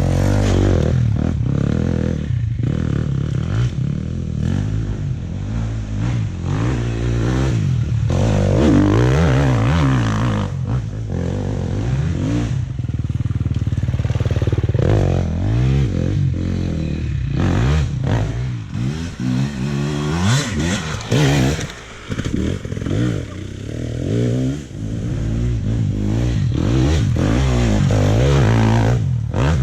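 Dirt bike engine being ridden hard on a trail, revving up and dropping back again and again as the throttle opens and closes through the gears, with brief let-offs about two-thirds of the way through.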